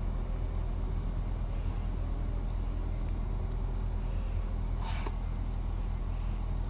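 Car engine idling with a steady low hum. A single sharp click about five seconds in comes from the folding e-bike being handled.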